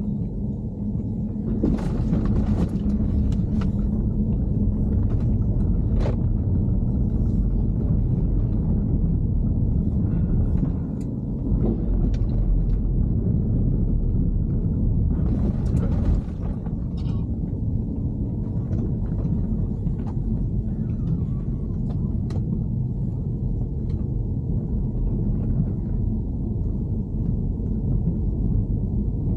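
Steady low rumble from a BMW E90, with a few sharp clicks or knocks scattered through it, about 2, 6, 16 and 22 seconds in. The car is being recorded for an unexplained abnormal noise.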